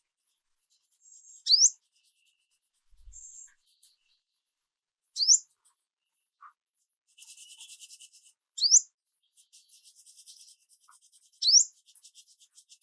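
A wild bird calling: a sharp upslurred whistle, repeated four times about every three and a half seconds, with faint high buzzy chatter in between.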